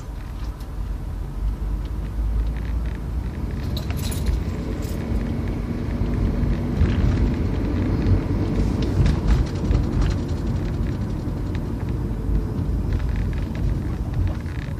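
Low, steady rumble of a car, building up over the first couple of seconds, with a few faint clicks about four seconds in.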